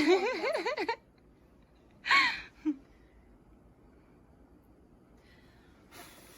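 A few women's voices cheering with a wavering, warbling pitch for about a second, then one short rising exclamation about two seconds in, followed by quiet room tone.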